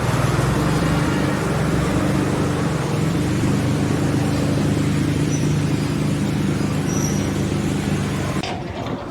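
An engine running steadily, cutting off suddenly near the end.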